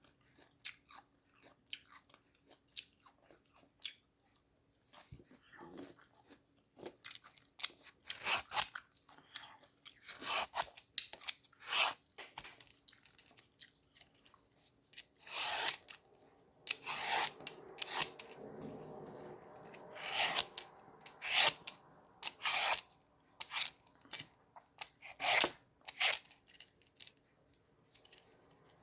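Close-up crunchy chewing and bites of a firm, crisp mango. The crunches come in irregular clusters, sparse at first and busier from about a third of the way in.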